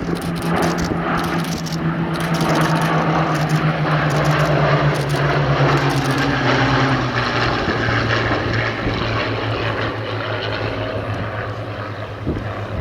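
Propeller-driven piston-engined warbird flying past, its engine drone swelling and then dropping in pitch as it goes by.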